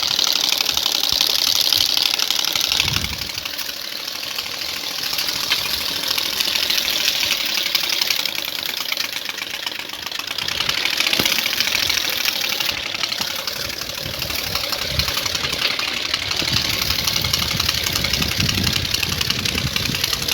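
Motorcycle with newly fitted aftermarket exhausts running, its exhaust note a rapid putter that swells louder at the start and again around ten seconds in, as it is revved and let back down.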